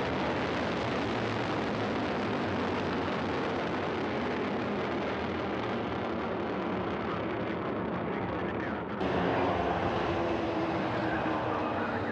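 Soyuz rocket's engines roaring at full thrust during ascent: a loud, steady, even rumble. It shifts abruptly and gets a little louder about nine seconds in.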